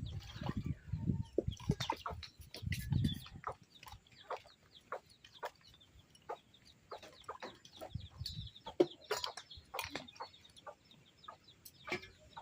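Chickens clucking, among scattered short clicks, with a few low thumps in the first three seconds.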